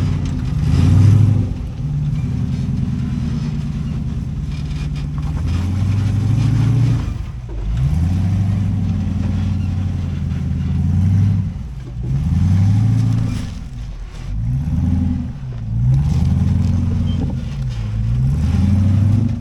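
Off-road rock-crawling rig's engine revving in repeated bursts, its pitch rising and falling every couple of seconds as it works over rocks.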